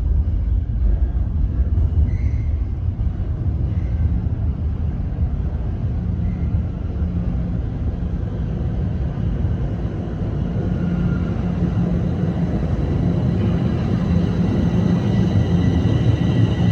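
TTC Line 1 subway train moving through the station with a steady low rumble. Near the end a high, steady electric motor whine comes in over the rumble as the sound grows a little louder.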